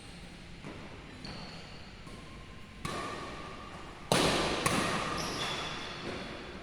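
Badminton rackets striking a shuttlecock: three sharp hits about three, four and four and a half seconds in, the middle one the loudest, each ringing out in the hall. Short high squeaks of court shoes come between the hits.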